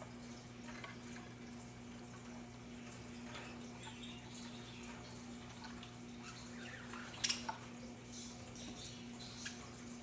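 Budgerigars chirping softly and sporadically over a steady low hum, with one sharper, louder chirp or click about seven seconds in.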